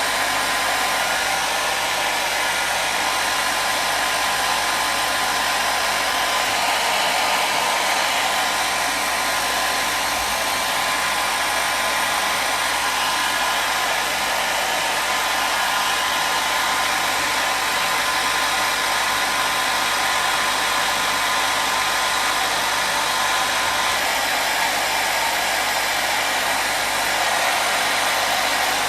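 Hair dryer running steadily: an unbroken rushing of blown air with a faint motor whine.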